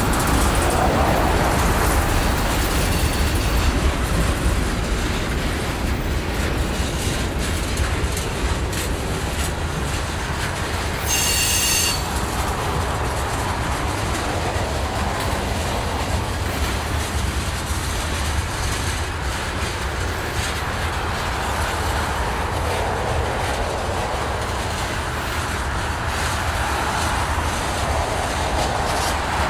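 Freight cars of a mixed freight train rolling past: a steady rumble and rattle of steel wheels on rail. Partway through, a wheel squeals briefly at a high pitch.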